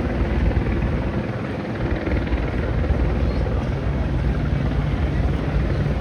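Steady low rumble with a faint continuous hum, loud and without pauses.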